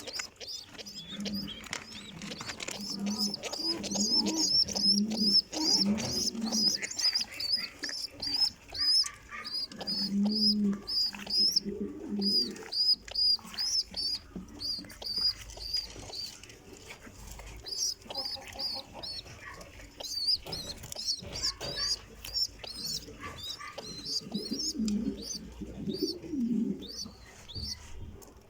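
Pigeons cooing in low repeated phrases, in three bouts, over a steady run of high, rapid chirps several times a second.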